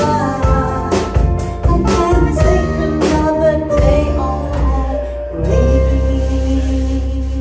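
A band plays the closing bars of a pop-rock song, with drums and chords. About five seconds in, it lands on a final held chord that rings on with a strong bass.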